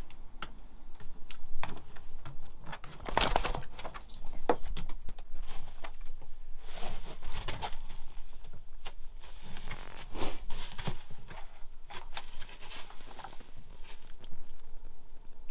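Rustling and crinkling handling sounds with many scattered clicks and taps in a small space, loudest about three seconds in.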